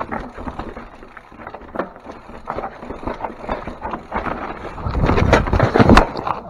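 Mountain bike clattering down a rocky trail: tyres knocking over rocks and roots, frame and chain rattling, with wind rumble on the microphone. The knocking grows louder and denser near the end.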